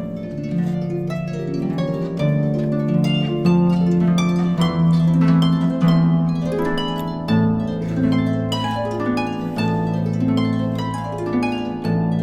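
Background music: a plucked harp melody with arpeggiated chords.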